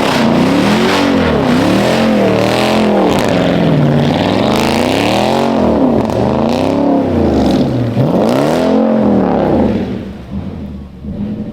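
Modified Chevrolet Camaro engine revved up and down over and over, about once a second, as the car slides in the snow; the engine sound falls away near the end.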